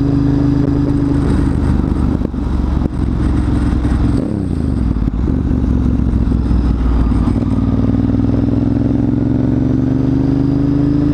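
Motorcycle engine running while riding. Its note drops about four seconds in, stays low for a few seconds, then climbs steadily as the bike accelerates.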